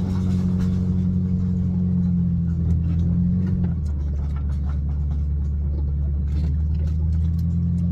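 Car engine running, heard from inside the cabin as a steady low hum; its tone drops lower about halfway through and comes back up near the end.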